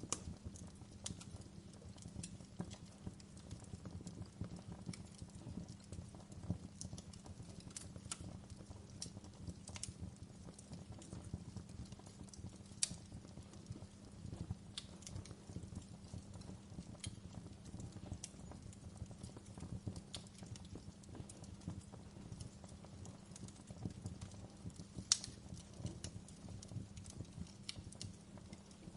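Wood fire burning in a fireplace: a steady low rumble of flames with irregular crackles and pops from the logs, two sharper pops about thirteen seconds in and near the end.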